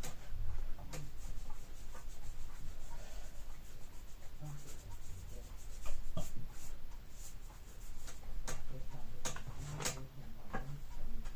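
Light scratching and rubbing of a pencil-like tool on a hard painted surface, with scattered small clicks and taps at irregular intervals.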